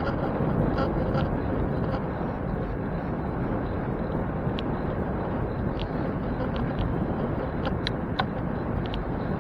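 Steady rumble of wind on the microphone and road noise from a bicycle in motion, with scattered light ticks.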